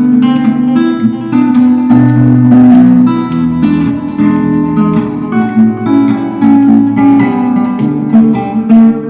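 Acoustic guitar music, notes plucked and strummed in a steady run of changing chords, with no singing.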